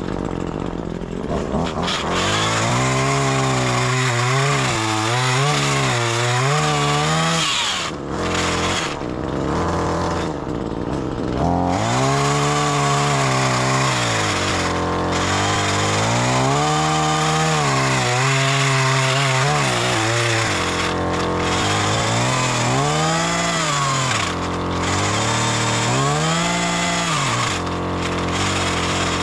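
Gas chainsaw running and cutting wood, its engine pitch rising and falling over and over as it revs and bogs in the cut.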